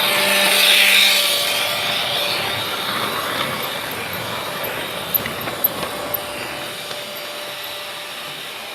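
Freight train rolling past: a steady rush of wheels on rail that swells to its loudest about a second in, then slowly fades, with a few sharp clicks about halfway through.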